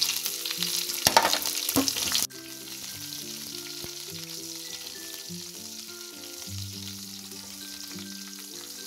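Whole spices, bay leaves and chillies sizzling and crackling in hot mustard oil in a kadhai as they are stirred with a spatula. The loud crackle drops off suddenly about two seconds in, leaving a softer steady sizzle, with background music playing throughout.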